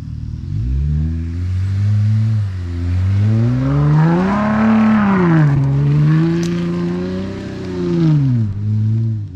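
Jeep Gladiator V6 exhaust with all three mufflers removed and only a resonated tip, revving: the pitch climbs, dips, climbs and holds, then falls back near the end.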